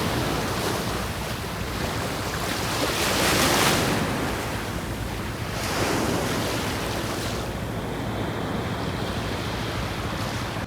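Sea waves washing onto a beach, swelling louder a few seconds in and again around the middle, with wind buffeting the microphone.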